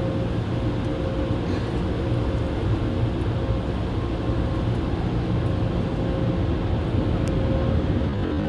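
Automatic car wash machinery running steadily, heard from inside the car's cabin: a constant low rumble with a steady hum.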